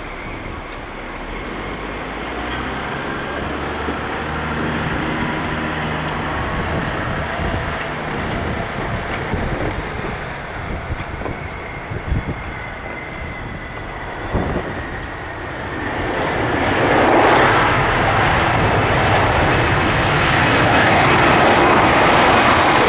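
Boeing 757-200 jet engines on a landing, a steady rumble with a faint whistle that slowly drops in pitch, growing much louder about two-thirds of the way through and staying loud to the end.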